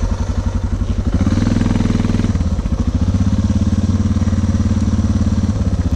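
Single-cylinder motorcycle engine running at low revs with an even, rapid pulse, swelling louder for about a second a little after one second in.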